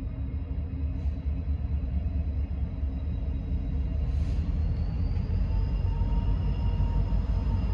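Steady low rumble of a train on the tracks, with faint thin tones above it that drift slightly upward about five seconds in.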